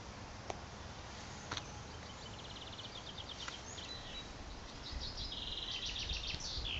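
Birds chirping outdoors over a faint steady background hiss, with a quick trill about two seconds in and a longer one near the end.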